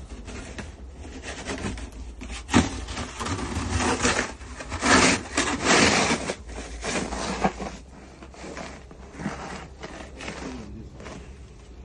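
Snow being cleared off a snowed-up car: a run of irregular scraping and brushing strokes, with a sharp knock about two and a half seconds in.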